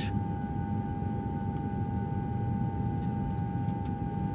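Steady airliner cabin drone: a low rumble with a constant hum tone over it.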